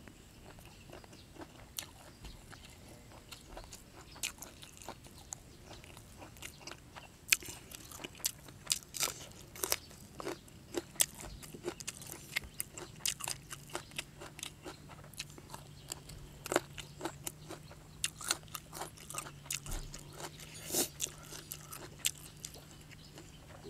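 Close-up chewing of a mouthful of raw beef and fresh vegetables: irregular crisp crunches and wet mouth clicks, sparse at first and coming thicker from about seven seconds in.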